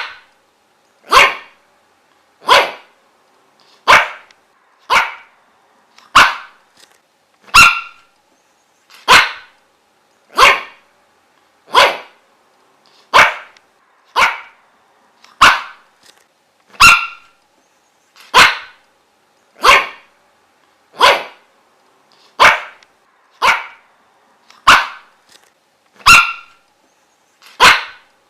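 Dog barking: single sharp barks repeated at an even pace, about one every second and a half.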